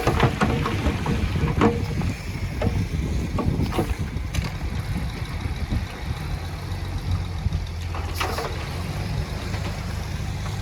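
Diesel engine of heavy earthmoving machinery running with a steady low rumble, with a few short clanks and clatters of metal and stone scattered through it.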